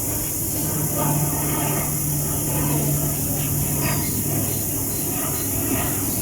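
Aircraft engine noise: a steady loud hiss over a low hum that steps up in pitch about half a second in and falls back near the end.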